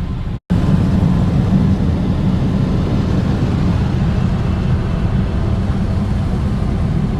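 Automatic car wash drying blowers heard from inside the car: a loud, steady rush of air, with a brief cut to silence about half a second in.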